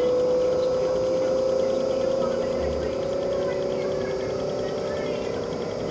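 Fedders 8000 BTU window air conditioner running on high: steady air rush with a hum that slowly rises in pitch.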